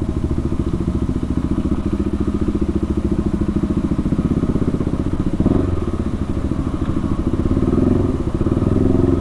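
KTM RC 390's single-cylinder engine running through a cat-delete IXIL exhaust while riding, a steady bassy pulsing note whose pitch shifts with the throttle about five and a half seconds in.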